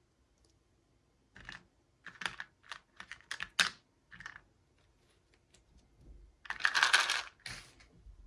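Small plastic pieces and packaging being handled: a quick run of sharp clicks and taps starting about a second and a half in, then a longer crinkling rustle about seven seconds in.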